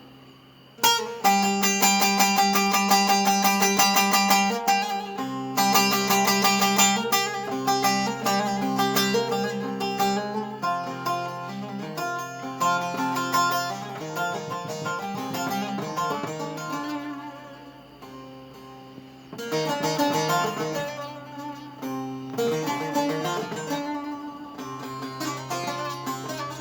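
Bağlama (saz) played solo: fast plucked melody over a steady low drone, starting about a second in, thinning out briefly past the middle, then picking up again.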